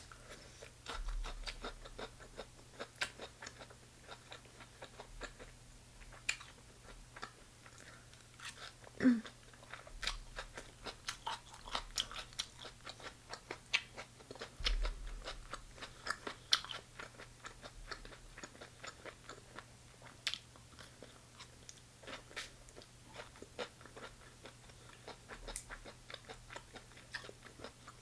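Close-miked chewing of chicken gizzards and stir-fried onions and peppers: steady crunching with many small wet clicks. A short, louder low sound comes about nine seconds in.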